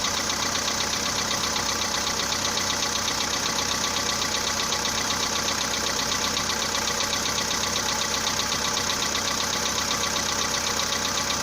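Volkswagen Polo Sedan engine idling with a fast, even knock running through it, which the owner calls a knock characteristic of a cold start.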